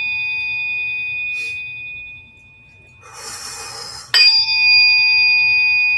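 A struck metal instrument rings with a clear, bell-like tone and several overtones, fading out about two seconds in. A short breathy hiss follows, then it is struck again about four seconds in and rings on steadily.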